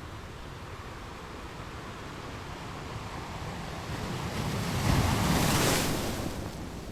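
Sea waves: a wave builds, breaks and washes in about five seconds in, then recedes, over a steady hiss of surf.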